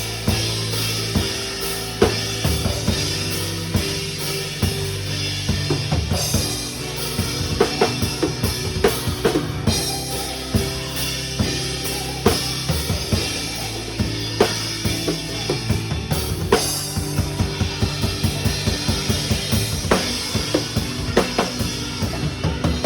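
Drum kit played over the song's music, with kick and snare hits and busy fills over sustained low bass notes.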